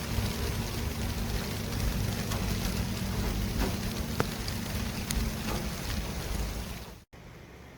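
City traffic ambience: a steady low rumble of vehicles with a hiss of tyres and faint scattered clicks. About seven seconds in it cuts out for an instant and gives way to a quieter, thinner traffic noise.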